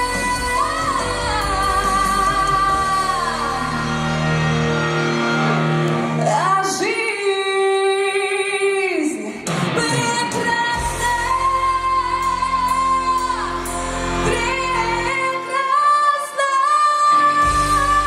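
Pop song with a lead vocal holding long sung notes over band accompaniment; the bass drops out twice for a couple of seconds, leaving the voice and higher instruments.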